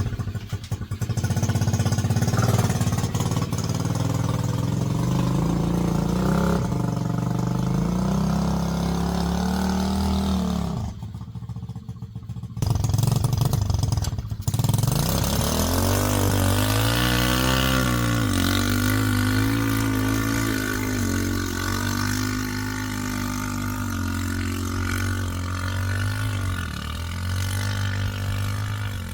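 Small 125cc Chinese single-cylinder engine of a tracked mini bike running and revving, its pitch rising and falling as the throttle changes. It drops off briefly about eleven seconds in, then picks up again.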